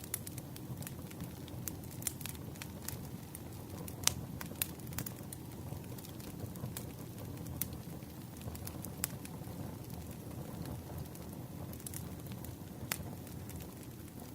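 Wood campfire crackling: a steady low rumble of flames with irregular sharp pops and snaps, one louder pop about four seconds in.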